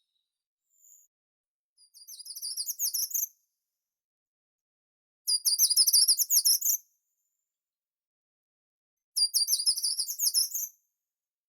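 A small songbird singing three short phrases of rapid, very high-pitched notes, each lasting one to two seconds, with a few seconds of quiet between them.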